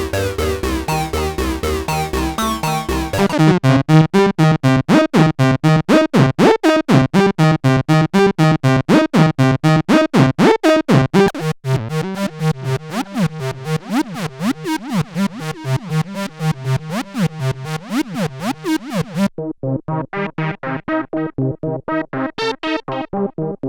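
Roland SE-02 analog monosynth playing a fast repeating sequence of short notes, about five a second. The patch sound changes several times as the presets step through: a deep, bass-heavy tone at first, then brighter plucky notes, and much duller, filtered notes near the end.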